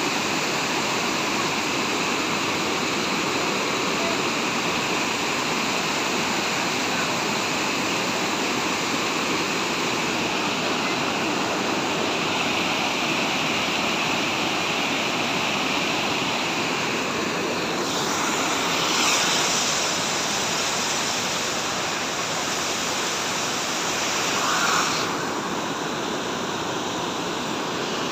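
Harbiye waterfall: a steady rush of falling water, swelling slightly a few times.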